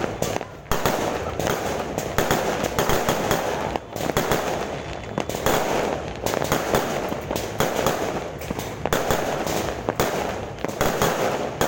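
Fireworks going off without pause: a dense, irregular run of bangs and crackling pops.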